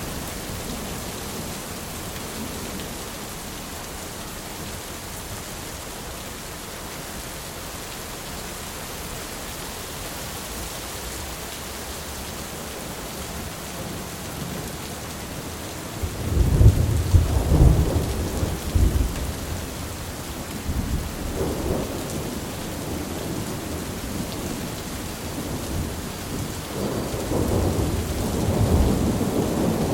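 Thunderstorm: steady rain falling, with a loud thunderclap breaking suddenly about halfway through and rolling on for a few seconds. Further rumbles of thunder follow, building again near the end.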